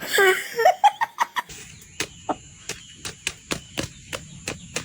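A chicken squawks loudly in short, falling calls, then a regular run of short, sharp clicks follows at about three a second over a faint, steady high whine.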